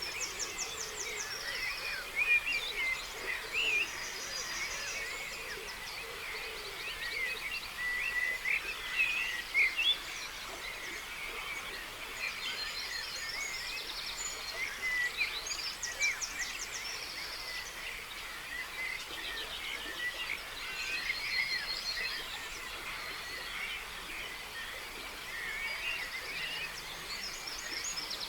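Dawn chorus: many songbirds singing at once in overlapping chirps and whistles. A high, fast trilling phrase comes back several times.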